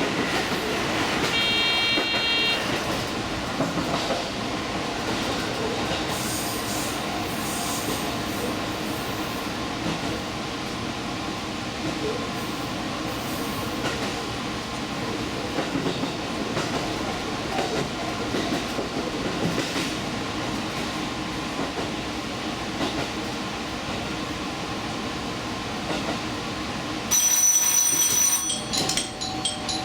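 Steady running noise of the Furano Lavender Express, a diesel limited express train, heard from inside the front of the train. A brief high electronic tone sounds about two seconds in, and a series of short, rapid beeps comes near the end.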